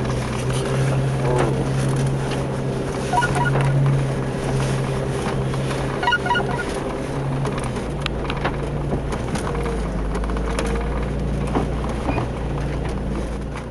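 A Jeep 4x4's engine running steadily at low speed as it crawls along the tracks through deep snow, with a low rumble under the engine note.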